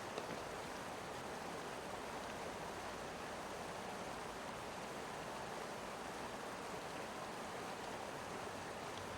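Steady rush of a flowing mountain river.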